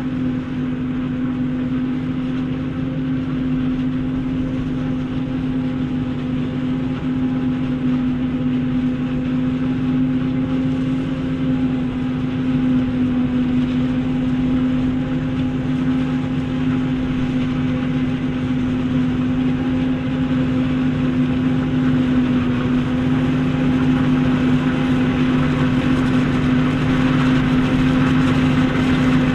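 Heavy diesel farm machinery at work in a corn silage harvest, running steadily under load with a constant low hum, growing slightly louder in the second half.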